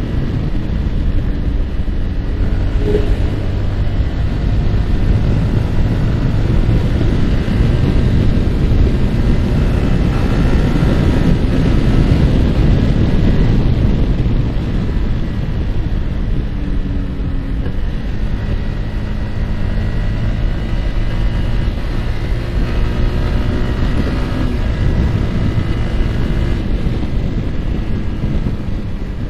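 Yamaha R15's single-cylinder engine running at road speed under heavy wind noise on the microphone, its engine note rising and falling in pitch now and then.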